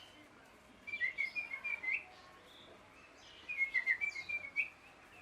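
Ringneck parrot chirping: two quick runs of short, high chirps, each a little over a second long, the first about a second in and the second a second and a half later.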